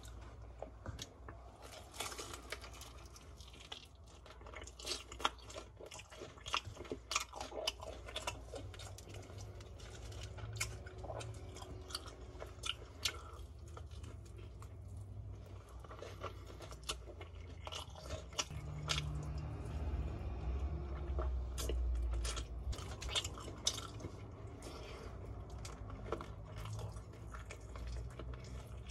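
Chewing and biting of BHC Bburinkle fried chicken, with many sharp crunches of the crisp seasoned coating between bouts of steady chewing. A low rumble swells about two-thirds of the way through.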